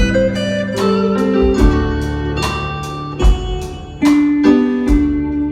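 Live band playing an instrumental passage: guitar and keyboard chords over a drum beat, with the chord changing about every second.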